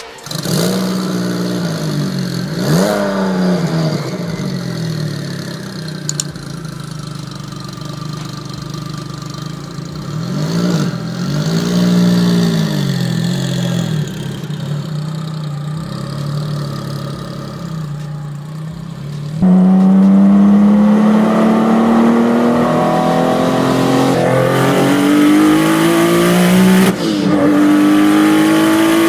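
9ff GT9's Porsche-based flat-six idling, revved twice with quick rises and falls in pitch. Heard from inside the car, it then pulls hard, louder, its note climbing steadily, drops briefly at an upshift near the end and climbs again.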